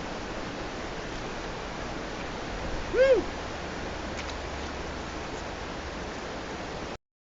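Steady rush of a fast, flood-high river. About three seconds in comes one short call that rises and falls in pitch, and the sound cuts off abruptly near the end.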